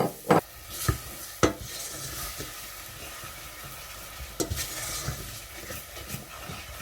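Garlic, chilli and ginger sizzling in hot sesame oil in a pan as they are stirred, with a few sharp knocks of a utensil against the pan in the first second and a half and again about four and a half seconds in.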